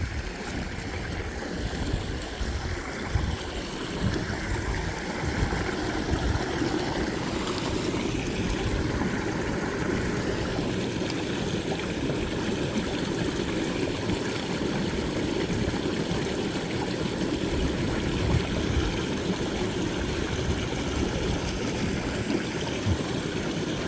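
A small creek running: a steady rush of flowing water, with an uneven low rumble underneath.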